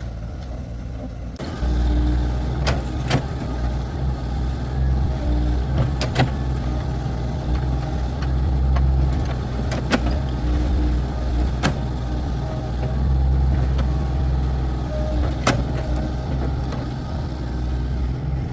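A vehicle engine running steadily with a low rumble, coming in sharply about a second and a half in, with a scattering of sharp clicks or knocks over it.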